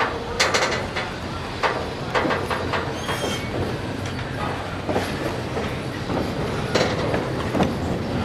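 Train rolling along jointed track: irregular clacking knocks of wheels over rail joints over a steady rumble, with a brief faint high wheel squeal about three seconds in.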